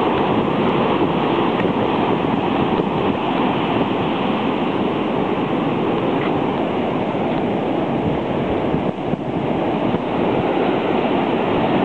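Ocean surf from a storm tidal surge: waves breaking and washing up against the shore in a steady, dense rush of water noise.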